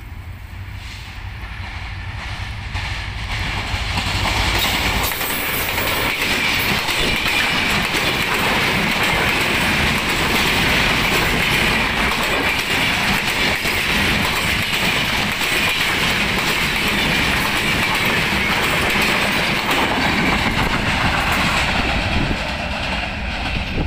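Diesel-hauled Bangladesh Railway intercity passenger train passing close by: the noise builds over the first few seconds as the locomotive arrives, then a long steady rush of coaches rolling past with wheels clicking over the rail joints, easing a little near the end.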